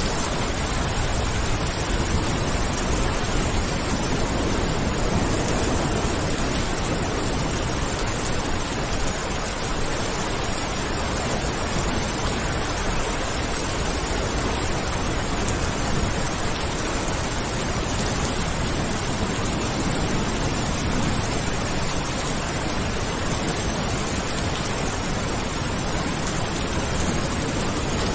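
Steady rain, an even hiss that stays level throughout.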